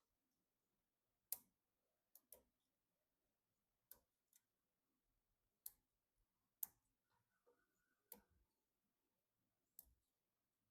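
Sharp, irregularly spaced clicks and taps of hard plastic and metal PC parts being handled and fitted during assembly, about eight or nine in all, with faint quiet between them.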